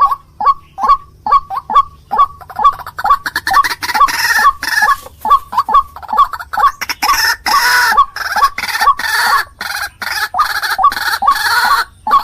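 White-breasted waterhen (ruak-ruak) calling: a rapid run of repeated short notes, about three or four a second, that becomes denser and harsher a few seconds in as the calling builds.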